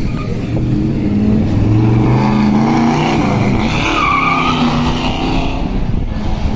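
Car engine running loud and revving, its pitch rising and falling.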